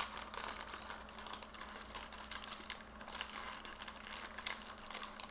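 Paper cookie bag crinkling and rustling as it is handled and opened, a continuous run of small crackles and clicks.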